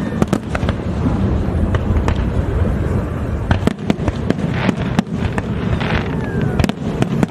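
Aerial fireworks display: a dense, continuous low rumble of bursting shells, with many sharp bangs and patches of crackling.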